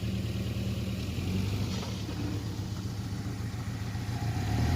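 Honda CB7 Accord's four-cylinder engine idling steadily, a little louder near the end.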